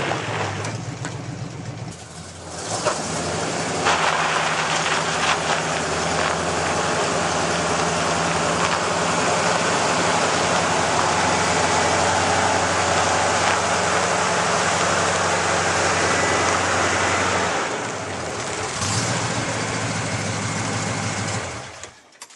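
Jeep J20 pickup's AMC 360 V8 running under load while pulling a felled pine log uphill. It grows louder and stronger about three seconds in, eases off near the end, and then stops suddenly.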